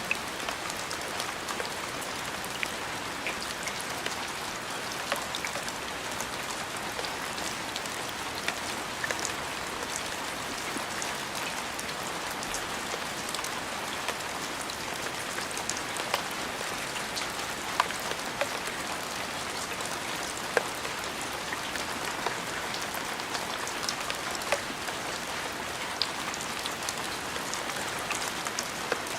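Steady rain falling on a surface, an even hiss with frequent sharp, distinct drops striking close by.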